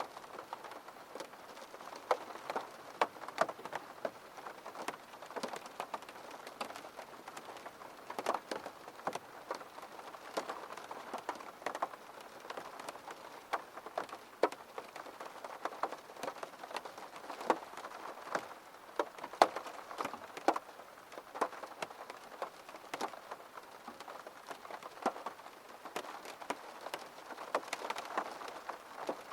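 Rain falling steadily, with many separate drops landing as sharp ticks at irregular moments.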